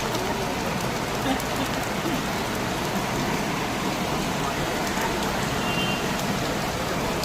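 Heavy monsoon rain pouring down, a steady even hiss.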